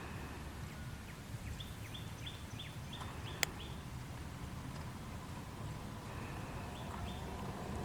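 Outdoor nature ambience with a steady low rumble, over which a bird calls a quick run of about seven short, high, falling notes. A single sharp click follows the run, and two more of the notes come near the end.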